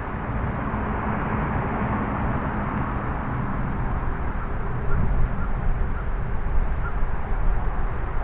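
Strong thunderstorm wind and rain: a steady rush with deep rumbling buffeting on the microphone, turning gustier about halfway through.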